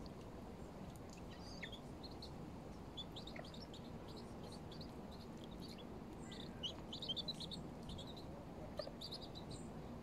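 Small birds chirping: scattered short, high-pitched calls, with a busier flurry about seven seconds in and another near the end.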